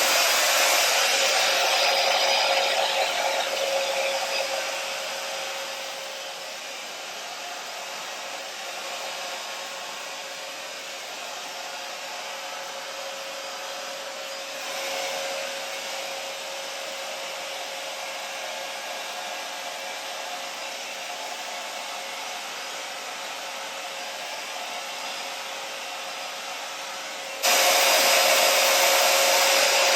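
Small hair dryer running steadily with a whining hum, blowing wet acrylic paint across a canvas. It is loud at first, drops off over the first few seconds, and turns suddenly loud again near the end.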